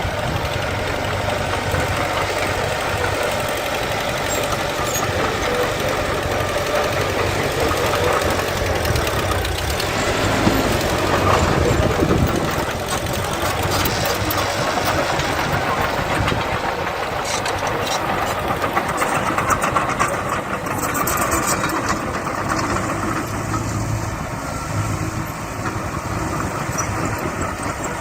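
Diesel engines of earthmoving machinery running steadily, swelling louder about ten seconds in, with a stretch of metallic clatter a little past the middle.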